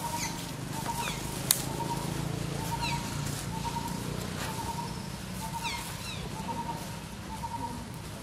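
Forest birds calling: a short low note repeating about once a second, with quick falling chirps every second or two over it. A single sharp click about one and a half seconds in.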